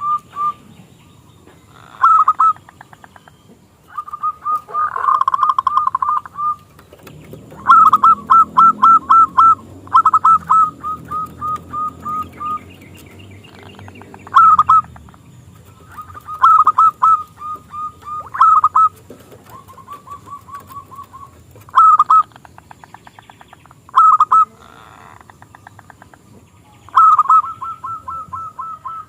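Zebra dove (perkutut) singing: repeated phrases of quick cooing notes at one pitch, each phrase ending in a louder accented note, with short pauses between phrases.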